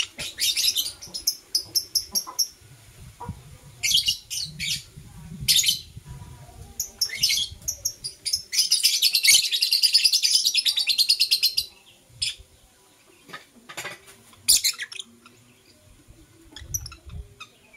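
Lovebirds chirping in quick high-pitched bursts, running into about three seconds of continuous chattering roughly halfway through, then only a few scattered chirps.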